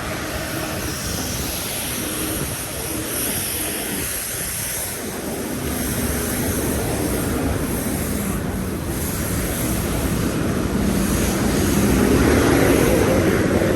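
Steady engine rumble with a faint drone, swelling louder near the end.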